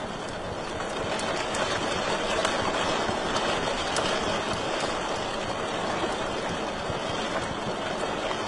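Wood fire burning in a fireplace: a steady rushing hiss with scattered sharp crackles and pops.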